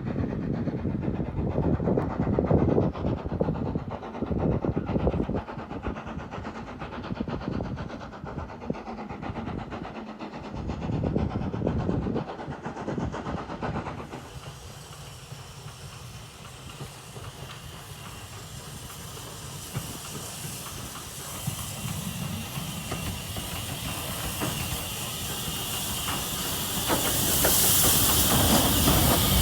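Heritage steam train running on the rails, with a low rumble and the clack and knock of wheels over rail joints. About halfway through the sound changes to a steady hiss of steam, which grows louder near the end.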